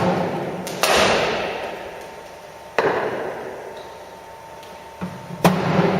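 Cricket ball knocks in an echoing indoor hall: a sharp crack at the start, a louder one about a second in, another near three seconds and one more about five and a half seconds in, each ringing out in the room.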